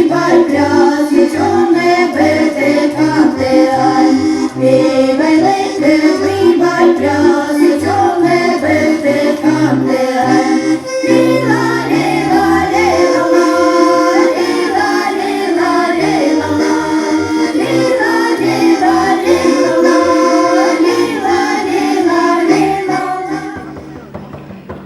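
Accordion playing a folk tune over held chords and stepping bass notes, stopping shortly before the end.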